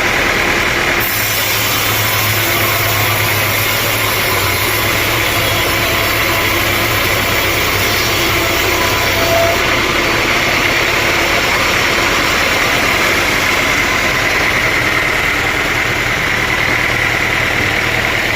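Sawmill machinery running with a loud, steady noise. A low hum comes in about a second in and drops away around ten seconds in.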